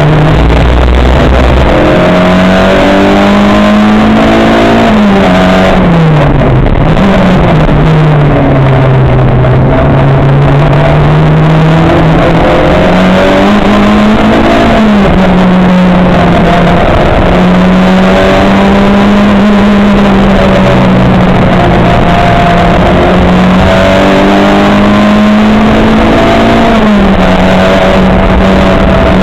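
Racing car's engine under load through a lap, its pitch climbing with the revs and dropping sharply at each gear change, with long steady stretches in between.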